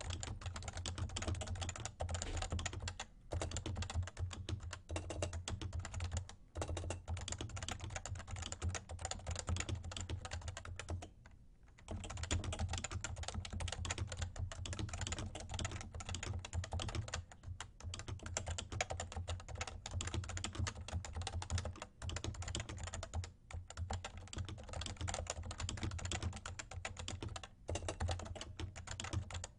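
Realforce R2 TKL keyboard with 30 g Topre electrostatic capacitive switches being typed on in a fast, continuous stream of keystrokes. There are a few brief pauses, the longest lasting about a second near the middle.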